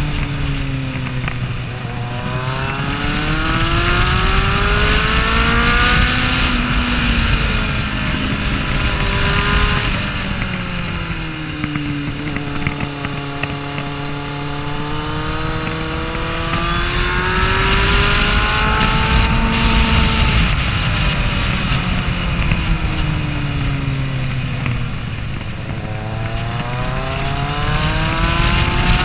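Kawasaki Z750's inline-four engine heard from the rider's seat on the move, its revs climbing as it accelerates and falling back as it slows, several times over. Wind and road noise sit underneath throughout.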